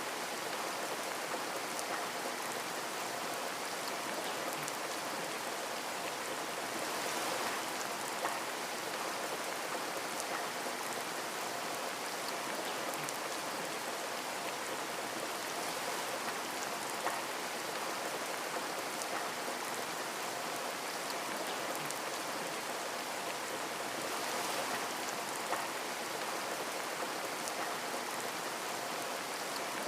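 Steady rain pattering on a window, a dense even hiss with scattered single drops ticking sharper against the glass, a few of them standing out near the middle and end.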